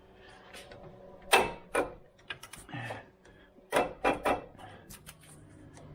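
Metal hand tools and car parts clanking and clicking, about five separate knocks with short gaps between them, some of them ringing briefly.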